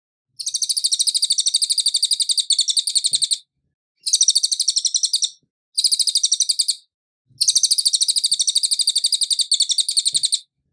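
Cililin song: four fast runs of sharp, high chirping notes at roughly nine a second, separated by short pauses, the first and last runs about three seconds long.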